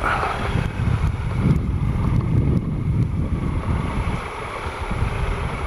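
The low, uneven rumble of a Triumph Explorer XC's 1215cc three-cylinder engine on the move, mixed with wind buffeting on the camera's microphone.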